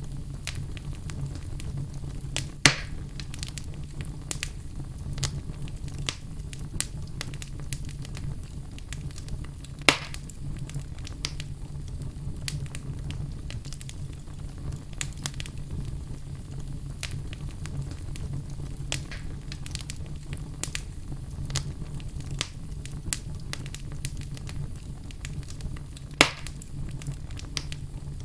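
Wood fire burning in a fireplace: a steady low rumble with frequent small crackles, and three loud sharp pops, about three seconds in, about ten seconds in and near the end.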